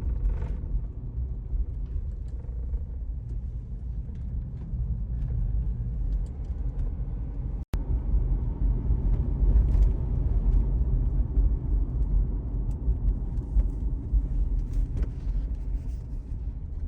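Car driving, a steady low road and engine rumble, with a momentary break a little under eight seconds in.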